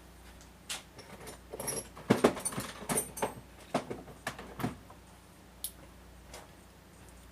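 Metal tools and parts clinking and knocking as they are handled: a quick cluster of sharp clanks with a metallic ring, then a few scattered knocks.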